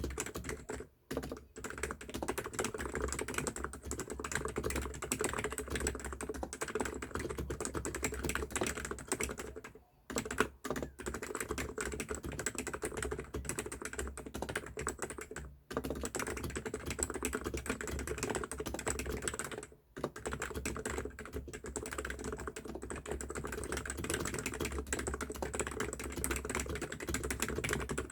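ABKO Hacker K995P V3 electrocapacitive keyboard with 45 g switches and PBT keycaps, typed on fast and continuously, with a few brief pauses.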